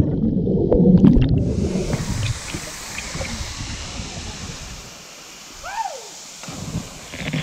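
Waterfall rushing steadily. The first second and a half is loud low rumbling and knocks, and there is one short falling chirp a little before the end.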